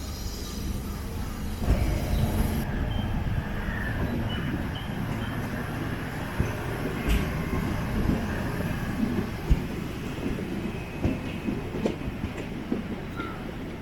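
Diesel-electric multiple unit (DEMU) train running along the track, heard on board: a steady rumble with irregular sharp knocks and clanks from the wheels and couplings, and a few brief high wheel squeals.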